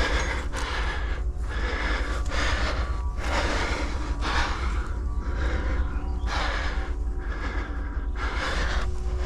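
A climber's heavy, effortful breathing close to the microphone, coming in swells about once a second, over a steady low rumble.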